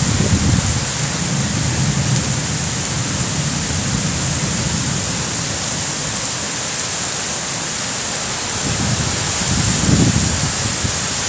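Heavy rain pouring steadily in a tropical storm. Low rumbling gusts of wind, or wind on the microphone, swell just at the start and again about ten seconds in.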